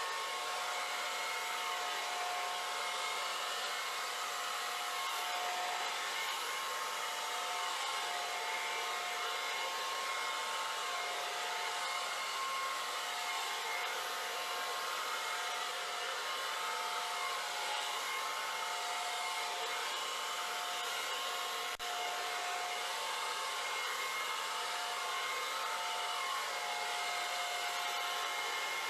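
Hand-held blow dryer running steadily, a continuous rushing hiss with a steady motor whine, blowing over wet acrylic paint. It drops out for an instant about three-quarters of the way through.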